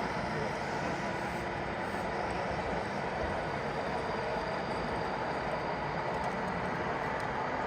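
Radio-controlled Scania model truck running, a steady, even vehicle noise with no change in pitch.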